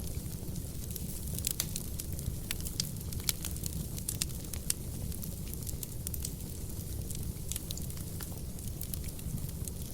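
Wood fire burning in a fireplace: a steady low rumble of flames with frequent sharp crackles and pops from the burning logs, busiest in the first half.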